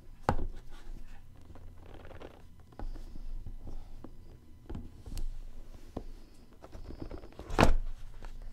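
Hands opening and handling a boxed record set: scattered knocks and light thuds with a short rustle, the loudest thud near the end.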